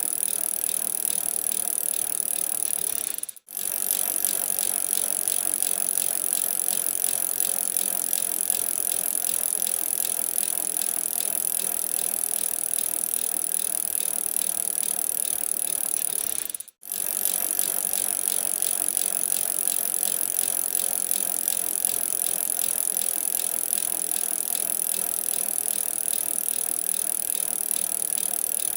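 Bicycle in motion: steady tyre noise with the chain and drivetrain rattling and ticking. The sound cuts out for a split second twice, about three seconds in and again about seventeen seconds in.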